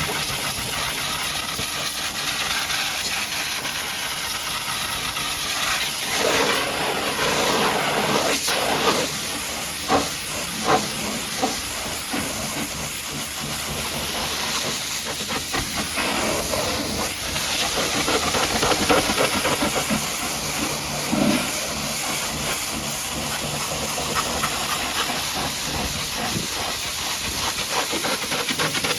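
High-pressure washer jet spraying water against a truck, a steady hiss that swells and eases as the spray moves, with a few short sharp knocks about ten seconds in.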